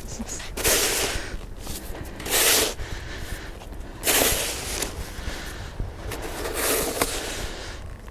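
Someone shoveling snow: four short, noisy rushes about two seconds apart.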